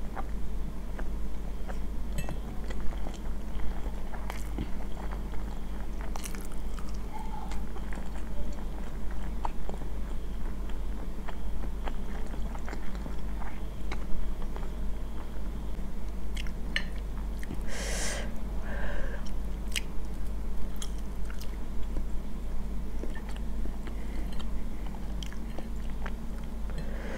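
Close-miked chewing of Samyang carbonara instant noodles, with frequent short clicks as a metal fork taps and scrapes a ceramic plate. A steady low hum runs underneath.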